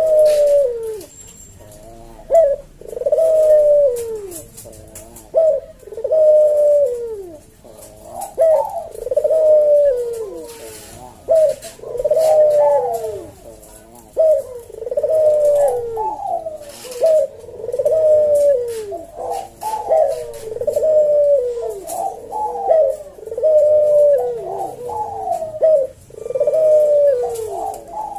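Puter dove (domestic ringneck dove) cooing over and over in a slow, spaced rhythm, each coo a low note that falls in pitch, about one every one to two seconds.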